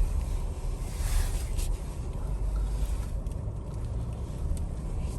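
Inside the cabin of a 2021 Ford Explorer ST moving off in a snowstorm: a steady low rumble from the engine and tyres on snow, with scattered light ticks of ice and snow hitting the car.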